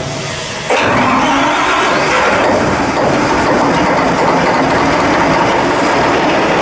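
Steady, loud machinery noise that steps up sharply about a second in and then holds even.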